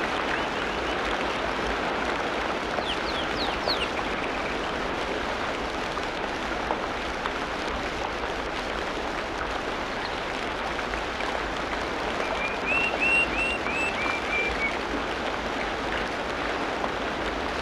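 Tropical rainforest ambience: a steady, dense hiss of falling or running water, with a bird giving a few thin sweeping chirps about three seconds in and a quick run of about six short repeated notes about twelve seconds in.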